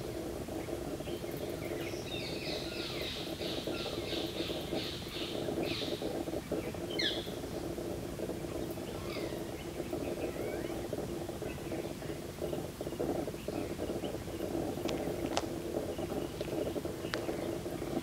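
Birds calling over a steady low hum: a quick run of repeated notes about two seconds in, a sharp falling call around seven seconds, and scattered short chirps after.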